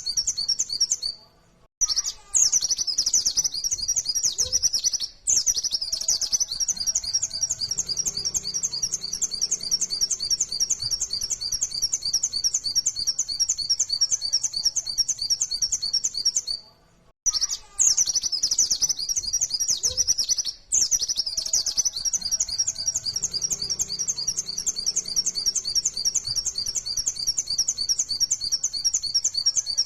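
White-eye (pleci) singing a long, fast run of high chirping notes. The song breaks off briefly about two seconds in and again around seventeen seconds, and the same stretch of song repeats.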